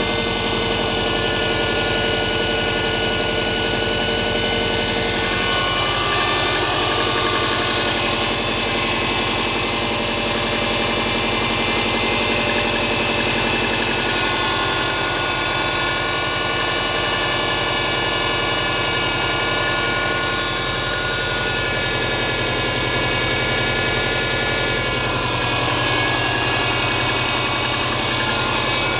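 Subaru EJ20G turbocharged flat-four engine idling steadily with a knock in it.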